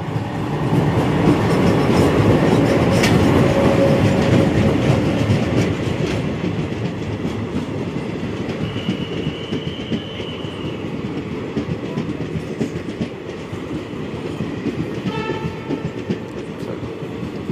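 Passenger train passing close by at speed: the locomotive's rumble is loudest in the first few seconds, then the coaches roll past with a steady noise and wheels clicking over the rail joints. A thin high tone sounds briefly near the middle, and a short pitched sound comes near the end.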